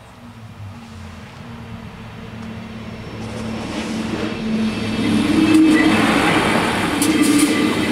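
LINT 41 diesel railcar approaching, growing steadily louder, with a steady engine hum that is joined by rumbling wheel-on-rail noise from about halfway through.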